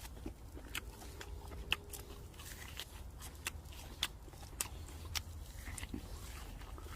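Wood campfire crackling: irregular sharp pops and snaps, about one or two a second, over a low steady rumble.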